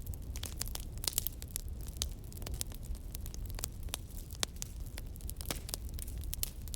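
Wood fire in a fireplace crackling and popping: many sharp, irregular snaps, several a second, over a steady low rumble.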